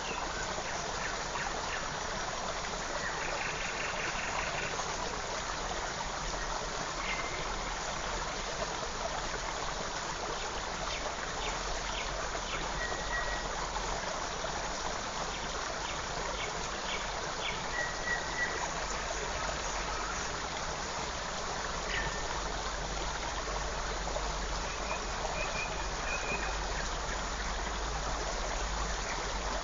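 Forest creek running steadily, a continuous rushing of water, with a few short, faint bird chirps and a brief trill now and then above it.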